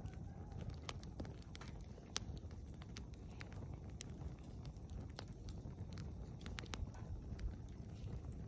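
Wood campfire crackling: irregular sharp pops and snaps over a low, steady rumble of burning.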